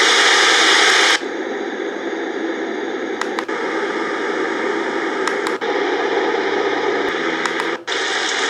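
Portable white noise machine playing a bright static-like hiss through its small speaker, which changes about a second in to a lower, fuller rushing noise. Brief clicks and short dropouts follow as it steps through its sound settings, and near the end a brighter hiss starts again.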